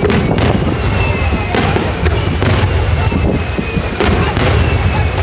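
Fireworks display: a quick run of aerial shells bursting, about two bangs a second over a deep rolling rumble, with thin high whistles sliding slightly downward.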